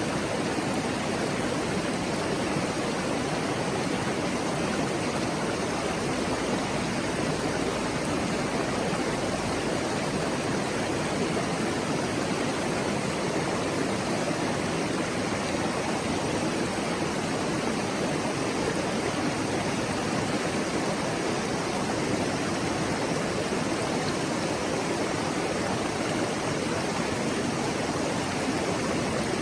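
River water babbling steadily, an even, unbroken rush of flowing water.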